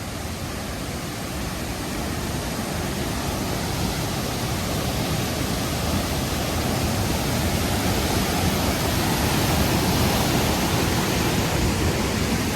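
Waterfall close by: a steady rush of falling water that grows gradually louder as it is approached.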